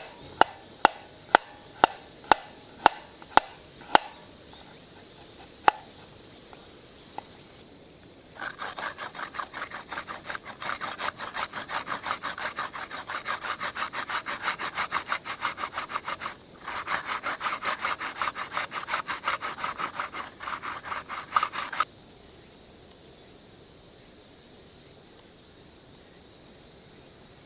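Hand saw cutting wood in fast, even back-and-forth strokes for about thirteen seconds, with one short pause midway. Before the sawing, about nine sharp knocks of wood on wood come roughly two a second.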